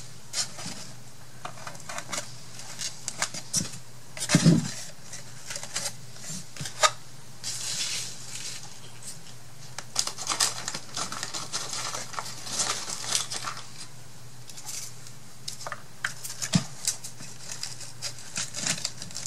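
Paper craft materials being handled on a work table: paper rustling and sliding in several bursts, with scattered light taps and clicks.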